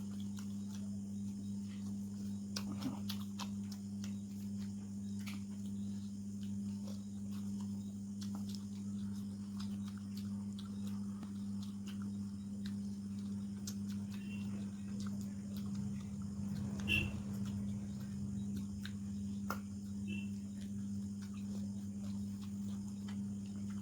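A person eating a meal of chicken and rice: faint, scattered chewing and small clicks and smacks, one a little louder about 17 seconds in, over a steady low hum.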